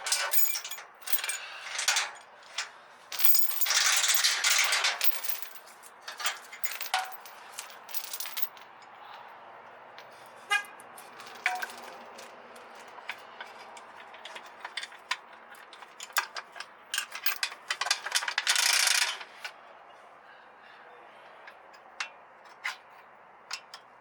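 Small hard objects clinking and rattling as they are handled, with two longer bursts of rustling noise, about four seconds in and again near eighteen seconds.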